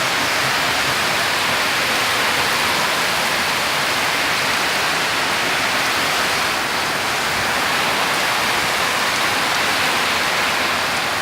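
Storm of heavy wind-driven rain: a steady, even rush with no let-up.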